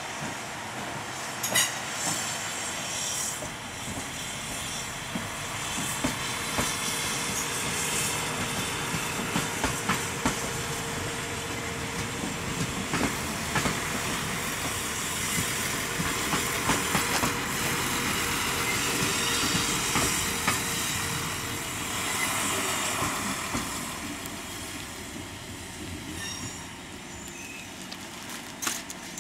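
SA138 diesel railbus with its 120A trailer car rolling slowly through the station's points, a steady running noise with many sharp knocks and clicks from the wheels over rail joints and switches. The sound fades as the train moves away near the end.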